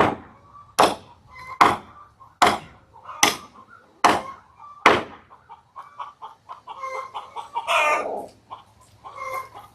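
Hammer blows on the wooden concrete form: seven sharp strikes, a little more than one a second, stopping about five seconds in. Chickens cluck throughout, and there is a brief scraping rustle near the end.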